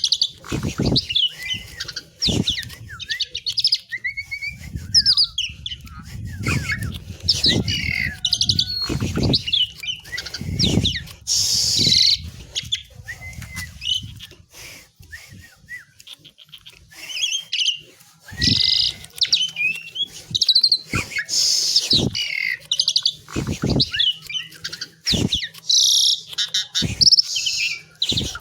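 Asian pied myna (jalak suren) singing a long, varied song of loud whistles, chatters and harsh notes, with a quieter pause about halfway through.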